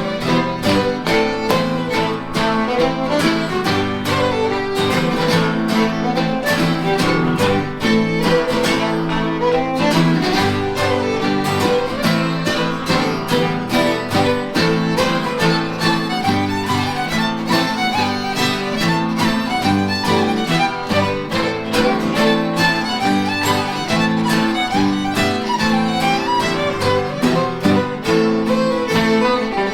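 Fiddle playing a fast-moving Scottish/Cape Breton dance tune with quick, evenly driven notes, backed by electric guitar.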